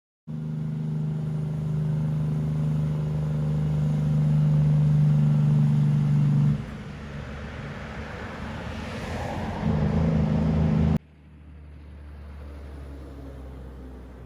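A motor vehicle's engine running with a steady low hum and a swell of noise about nine seconds in. The sound drops abruptly about six and a half seconds in and again about eleven seconds in.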